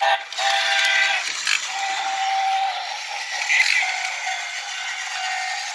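Tomy Plarail toy train set sounding through its small built-in speaker: a run of held electronic tones that change pitch every second or so, like a short jingle. Under the tones is a rattling hiss from the plastic toy train set.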